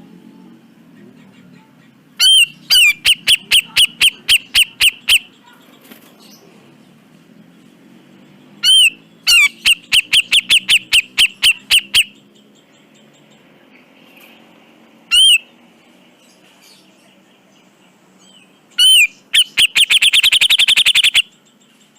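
Cucak jenggot (grey-cheeked bulbul) calling in loud phrases: each starts with one curved whistled note, then a rapid train of harsh repeated notes, about six a second. There are three such phrases and one lone note, and the last train, near the end, is faster and runs into a rattle.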